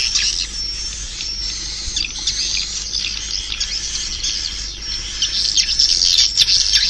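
Swiftlet chirps and twitters: a dense, overlapping stream of quick, high, downward-sliding calls that grows louder near the end. It is the kind of swiftlet call recording played to lure the birds into a swiftlet house.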